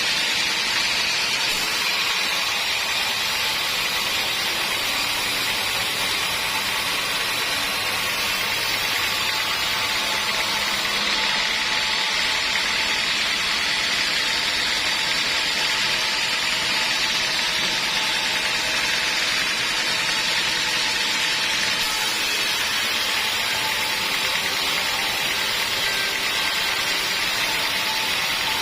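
Sawmill running steadily, a constant high-pitched hiss with a faint whine that does not change.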